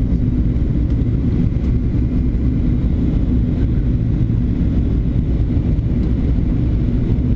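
Steady low drone inside a Boeing jetliner's cabin on approach: engine and airflow noise with a faint constant hum.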